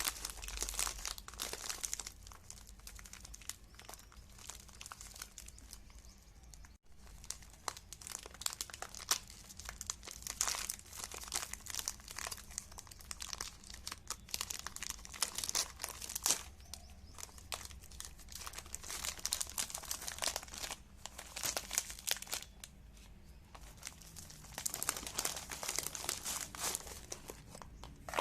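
Dense crinkling and crackling that comes in waves, with a brief break about seven seconds in.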